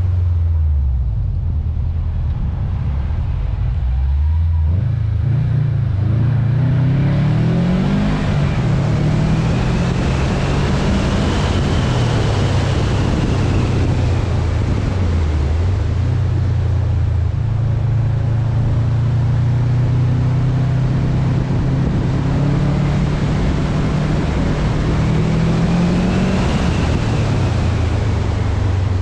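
2019 Subaru WRX STI's turbocharged flat-four engine running through an Invidia N1 exhaust while driving, its pitch falling at first, climbing under acceleration from about four seconds in, dipping once midway, and climbing again before dropping off near the end. Steady wind rush over the roof-mounted microphone.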